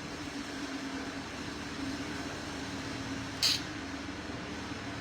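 Steady low hum of room background noise, with one short high click about three and a half seconds in.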